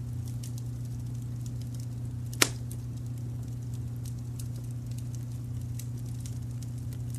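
Wood fire crackling with scattered small pops and one loud, sharp pop about two and a half seconds in, over a steady low brown-noise rumble.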